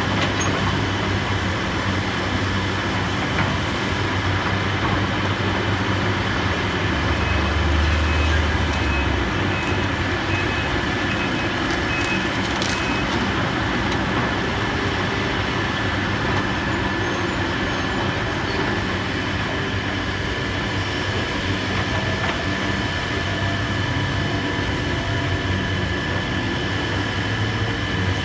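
Heavy diesel demolition machinery running steadily with a low engine hum and a constant whine. A reversing alarm beeps in short even pulses twice, about a third of the way through and again shortly after.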